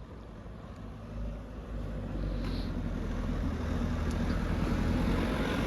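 A road vehicle approaching on the street, its low rumble growing steadily louder.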